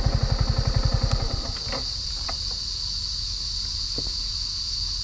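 Yamaha motorcycle engine running at low speed with a rapid, even beat that dies away about a second and a half in. A steady high insect drone runs throughout, and a few faint clicks follow.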